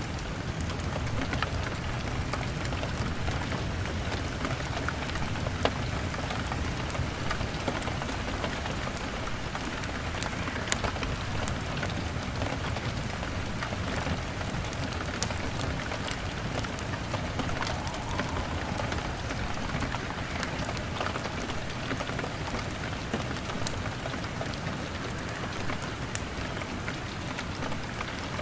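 Steady rain on window glass mixed with a crackling fire: a constant rain hiss with scattered sharp ticks and pops throughout.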